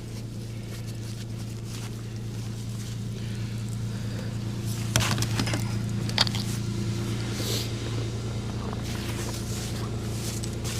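A vehicle engine idling steadily, with two sharp knocks about five and six seconds in.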